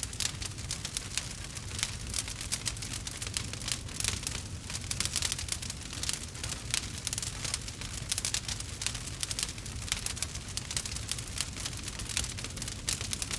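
Log fire crackling: a dense, irregular stream of small pops and snaps over a steady low rumble.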